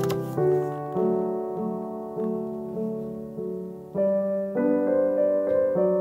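Soft background piano music: slow, sustained chords with a new phrase beginning about four seconds in.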